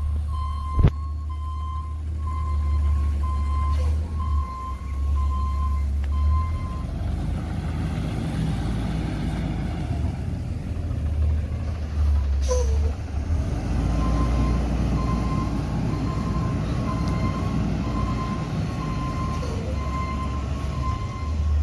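Autocar ACX Xpeditor garbage truck running, with its warning alarm beeping in a steady repeating rhythm over the engine. The beeping stops for several seconds around the middle and then starts again.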